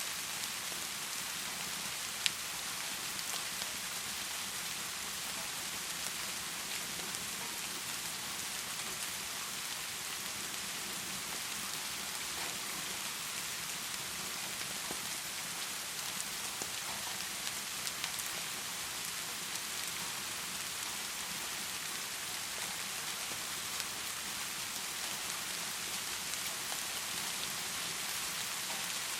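Heavy rain falling steadily, an even hiss of rain with a few small clicks scattered through it and one sharper click about two seconds in.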